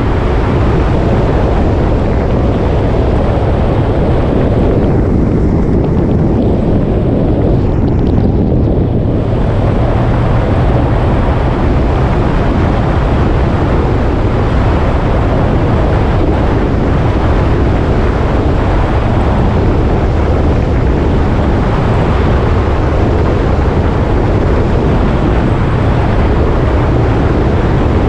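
Motorcycle riding at speed: wind rushing loudly over the microphone, mixed with the engine's steady running. The rush thins briefly about five to nine seconds in.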